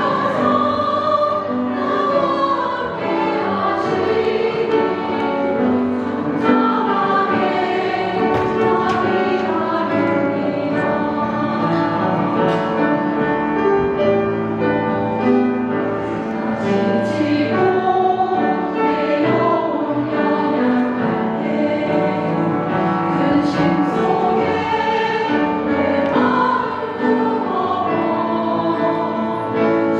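Women's vocal ensemble singing in harmony, several voices holding and moving between sustained notes.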